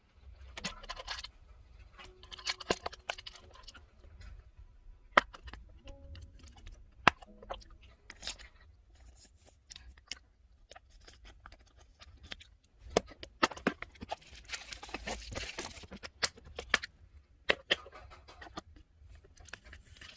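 Hands handling plastic photocard packaging: scattered crinkles, taps and clicks, with a longer stretch of crinkling rustle about thirteen to sixteen seconds in.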